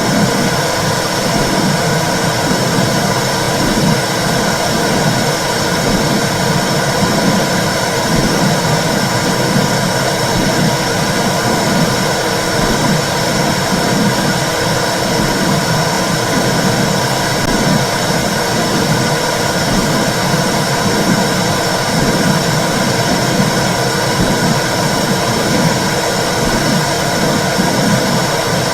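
Womb sound for soothing babies: a loud, steady whooshing hiss with a slow, regular pulsing in the low range.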